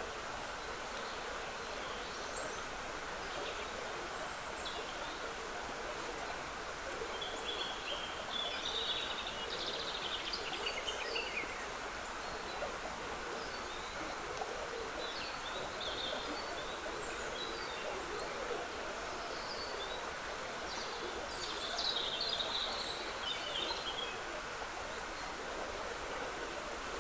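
Woodland stream trickling steadily, with songbirds singing short high-pitched phrases over it, most strongly about a third of the way in and again near the end.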